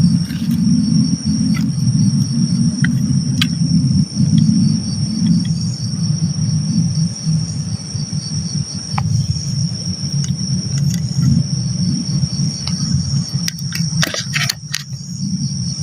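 Crickets and other night insects chirring steadily in high, even tones, over a loud low rumble. A quick cluster of clicks comes near the end.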